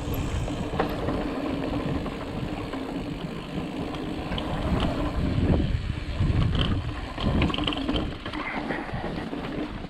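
Ibis Ripley mountain bike rolling over rock and sand: a steady low rumble with scattered clicks and knocks from the bike. It gets rougher and louder for a few seconds past the middle.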